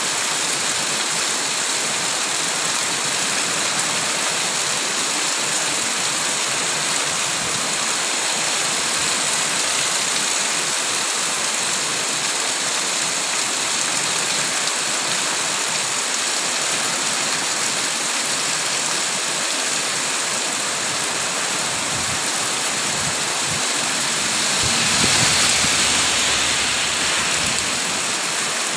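Very heavy rain pouring down steadily onto a street, trees and roofs: a dense, even hiss that swells louder for a few seconds near the end.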